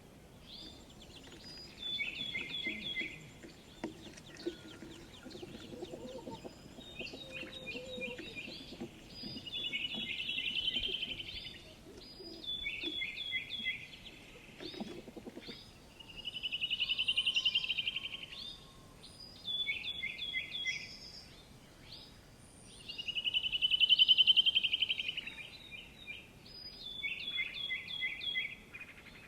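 Songbird singing in repeated phrases: short runs of quick, clear notes alternating with longer fast trills that swell up and fade, the loudest trill a little after the middle.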